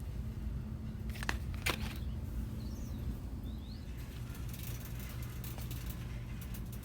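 Store background hum, steady and low, with two sharp clicks a little after a second in and two brief high chirps around three seconds, then a soft rustling.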